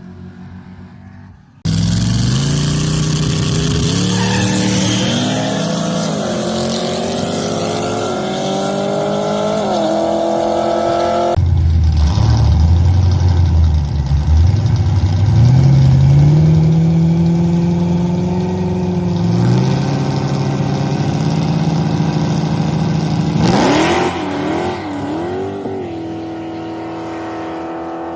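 Drag-racing street car's engine at full throttle, starting suddenly and climbing in pitch through the gears, with a drop at each upshift. After an abrupt change about eleven seconds in, the engine is again heard accelerating through the gears, then lets off near the end to a steadier, lower note.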